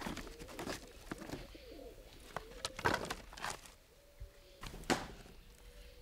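A bird cooing in a low, wavering note, over several sharp clicks and knocks; the loudest knocks come about three and five seconds in.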